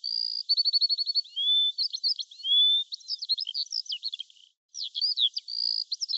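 A songbird singing a fast, varied song of repeated trills, clear whistles and quick up-and-down sweeping notes, with a short break about three-quarters of the way through.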